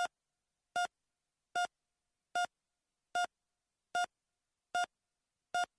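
Short electronic beeps repeating evenly, one roughly every 0.8 seconds, eight in all, each a brief clean tone with silence between.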